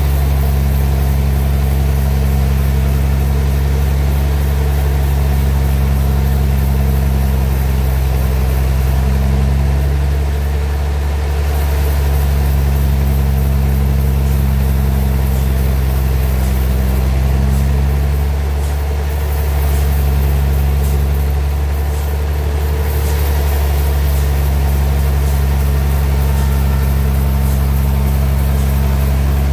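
Homemade sawmill's engine running steadily with a deep hum. Its note sags briefly a few times, about ten, nineteen and twenty-two seconds in.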